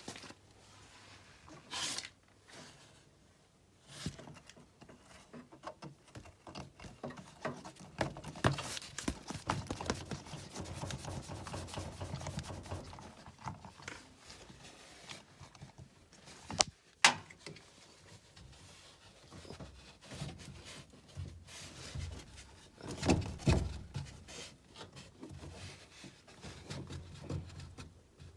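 Scattered rubbing and scraping handling noises with irregular knocks and clicks, a few of them sharper and louder.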